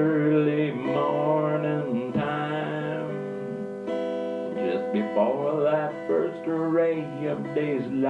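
Blues music: strummed acoustic guitar, with a man's voice singing over it.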